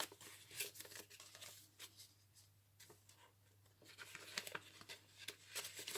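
Faint rustling and light ticks of paper and card being handled as the pages of a handmade junk journal are turned and tucked journaling paper is lifted, sparser in the middle and busier again near the end. A low steady hum lies under it.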